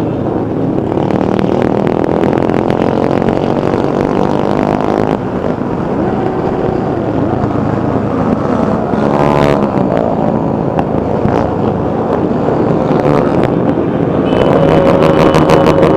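Many motorcycle engines running and revving together as a column of bikes rides past, with revs rising and falling about nine seconds in. It grows louder near the end, with a high steady tone over the engines.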